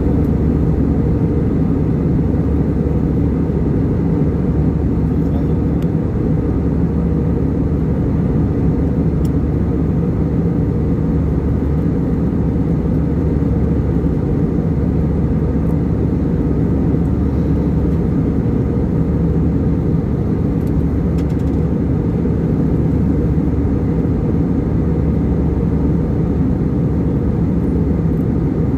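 Steady low rumbling drone of a moving vehicle's cabin noise, even in level throughout, with a few faint ticks.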